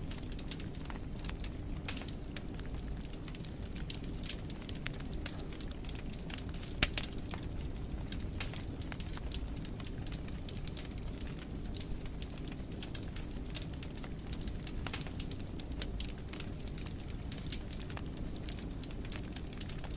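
Fire in a fireplace crackling: a steady low rumble of flames with frequent small snaps, and one louder pop about seven seconds in.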